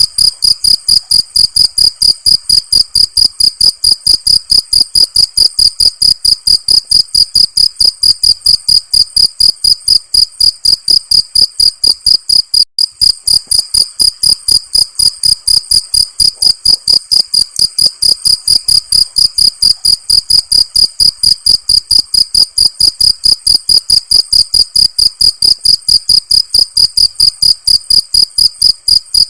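Cricket chirping in a fast, very regular rhythm, about three to four short, high-pitched chirps a second at one steady pitch, with a brief dip about 13 seconds in.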